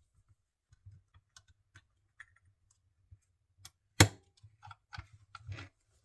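Light plastic clicks and fabric rustling as material is fitted under the fastening plate of a handheld mini sewing machine, with one sharp louder click about four seconds in and a quick run of small clicks after it.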